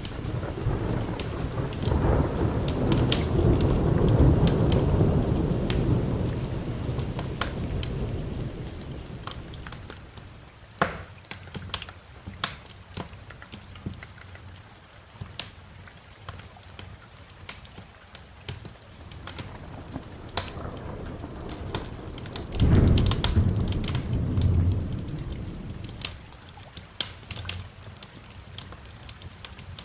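Thunder rolling twice, a long low rumble over the first ten seconds and a shorter, sharper one about 23 seconds in, over steady rain. A wood fire crackles with sharp pops throughout.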